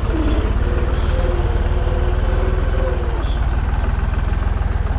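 Deutz 55F tractor engine running steadily under load while pulling a duck-foot cultivator, just recovered from nearly bogging down after the implement was raised with the automatic lift. A wavering higher tone rides over the engine for the first three seconds or so.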